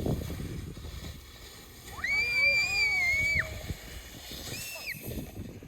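A child's high-pitched squeal, held for about a second and a half starting about 2 s in, then a shorter squeal near the end, over a rough low noise.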